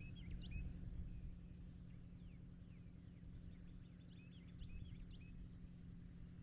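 Faint bird chirps in short quick clusters near the start and again about two-thirds of the way through, over a low rumbling background noise and a steady hum.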